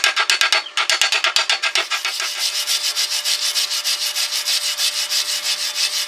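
Rapid back-and-forth rasping strokes of a hand tool scrubbing a workpiece, about ten strokes a second. There is a brief break about two-thirds of a second in, and the strokes turn denser and more even after about two seconds.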